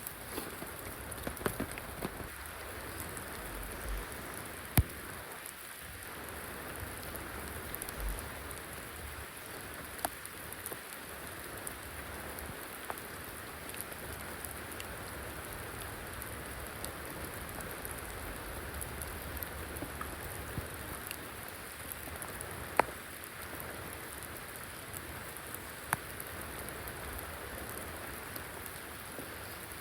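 Steady rain falling, with a few sharp louder drops landing close by.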